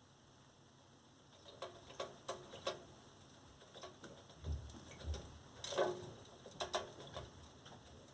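Pet parakeet bathing: a run of small, sharp splashes and patters of water, the loudest cluster about six seconds in, with a couple of soft low thumps just before.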